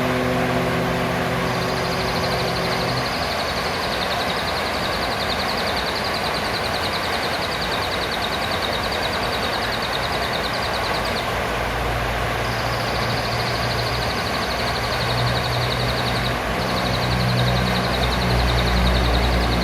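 Blue-crowned hanging parrot (serindit) giving long, high-pitched rapid trills, broken by short pauses about 11 and 16 seconds in. Underneath are a steady hiss and a low engine-like hum that grows louder in the second half.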